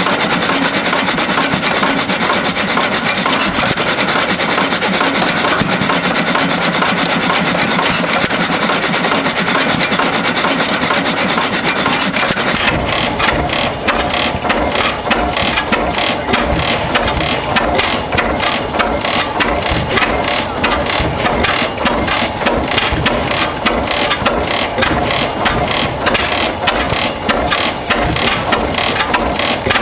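Old stationary engines running. About twelve seconds in, the sound switches abruptly to a different engine with a strong, regular, rapid firing beat.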